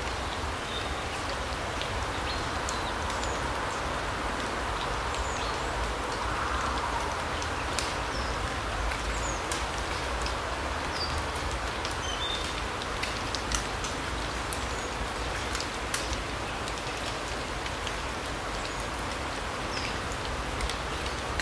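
Larch-forest ambience: a steady, even hiss with many small ticks scattered through it, and a few short, high bird chirps.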